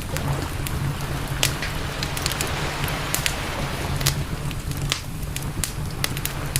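Campfire crackling: irregular sharp pops and snaps of burning wood over a steady hiss, with a constant low rumble underneath and a brief swell of hiss in the middle.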